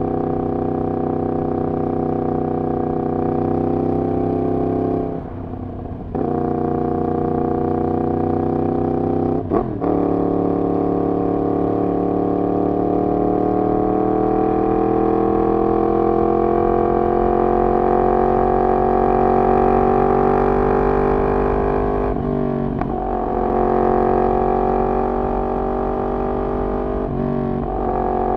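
Yamaha MT-10's crossplane inline-four running through a decat full exhaust system, heard from on the bike while riding. The engine note drops briefly about five seconds in and blips sharply near ten seconds, then the revs climb slowly for several seconds, with two more brief throttle lifts near the end.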